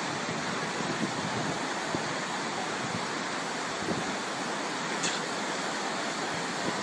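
Steady, even rushing noise of a storm, with a faint click about five seconds in.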